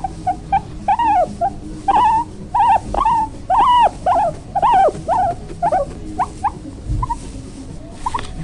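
Dog whimpering: a run of short, high-pitched whines that rise and fall, about two a second, growing sparser near the end.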